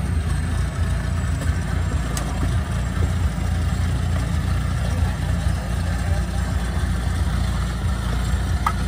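Rice combine harvester's engine running steadily with a deep, even drone.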